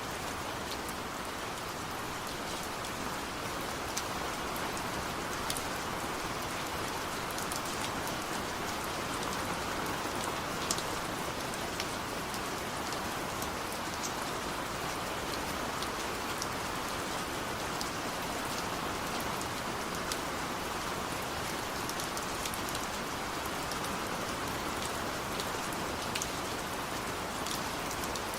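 Heavy rain falling steadily, an even hiss with scattered individual drops ticking sharply against a surface.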